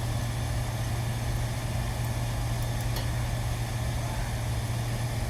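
Steady low machine hum at one unchanging pitch, like a motor or engine running, with a faint click about three seconds in.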